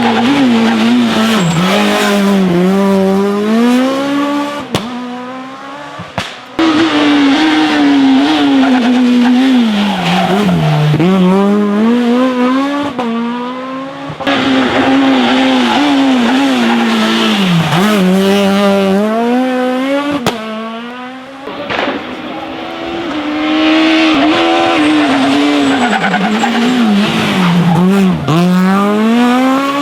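Rally car engines accelerating hard: each one's pitch climbs, drops at a gear change and climbs again as it shifts up through the gears. The sound breaks off abruptly several times, from one car's run to the next.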